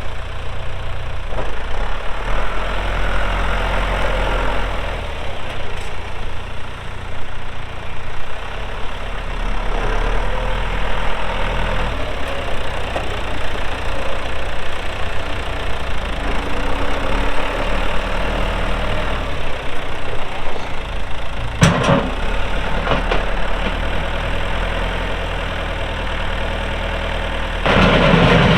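The diesel engine of a 1989 John Deere 2555 tractor runs steadily, its note shifting up and down as it works. A sharp clack comes about two-thirds of the way in, and near the end the engine note rises and gets louder.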